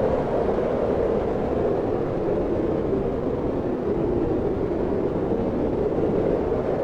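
Steady wind blowing, a continuous low rushing noise without gusts or breaks.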